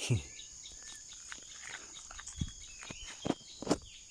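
Steady high-pitched insect drone, with several sharp knocks and a few short high chirps.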